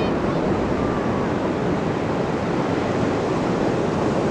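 Ocean surf washing steadily onto a beach, a continuous, even rush of breaking waves.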